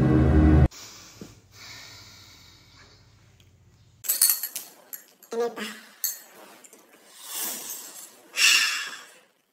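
Background music cuts off abruptly under a second in. After a few quiet seconds come scattered light clinks of cutlery on dishes and breaths during a meal, the loudest a noisy breath near the end.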